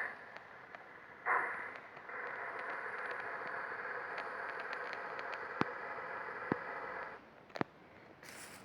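G-scale garden railway train running, a steady hiss lasting about five seconds that stops suddenly, with three single sharp clicks near the end.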